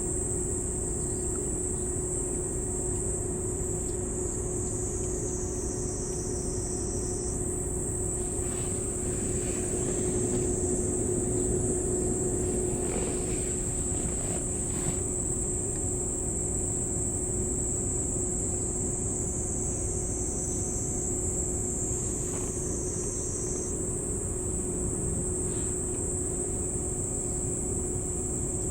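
Steady high-pitched chorus of insects, with a second, lower-pitched insect joining in twice for a few seconds, over a low steady hum and rumble.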